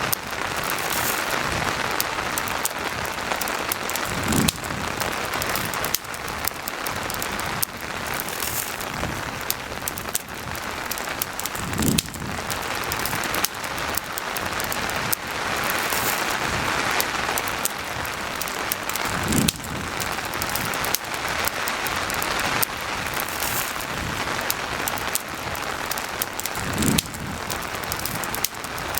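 Steady rain falling, mixed with the crackle of a campfire. Fine crackles run throughout, and a soft low thud comes about every seven and a half seconds, four times in all.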